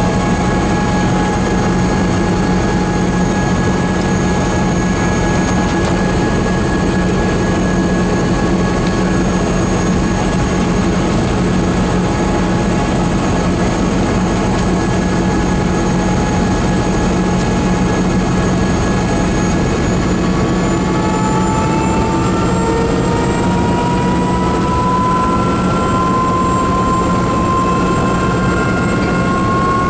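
Tourist helicopter's turbine engine and rotor running steadily during takeoff. About two-thirds of the way through, a whine starts to rise slowly in pitch over the steady low hum.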